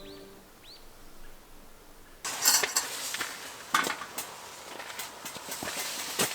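Background music fades out, then about two seconds in come a run of sharp clinks and knocks of camp cookware and utensils being handled.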